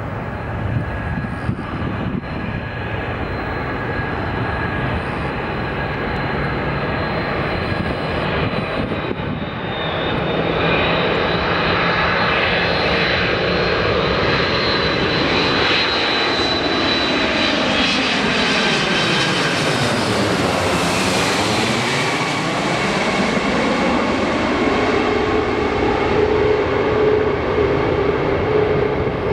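Boeing 747-400 jet engines flying past on landing approach, with a steady noise and a high fan whine. The sound grows louder about ten seconds in and is at its fullest and brightest about two-thirds of the way through, as the aircraft passes closest.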